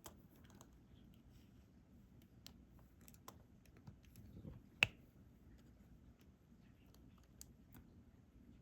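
Scattered light clicks and taps of a diamond-painting drill pen picking up resin drills and pressing them onto the sticky canvas, the sharpest click a little before the middle.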